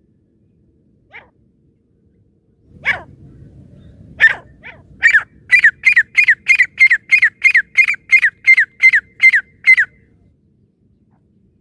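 Francolin (teetar) calling: a couple of single sharp notes, then a fast run of about fourteen calls, roughly three a second, each dropping slightly in pitch.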